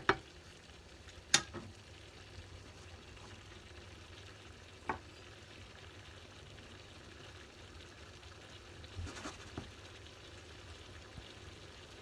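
Rice frying in hot oil in a pan, browning for paella: a faint steady sizzle, broken by a few sharp knocks of a utensil against the pan, the loudest just over a second in and another about five seconds in, with a small cluster of taps near the end.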